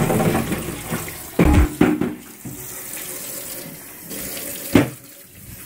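Kitchen tap running into a sink while refrigerator shelves are washed, with a few knocks of the shelf against the sink, the sharpest one near the end.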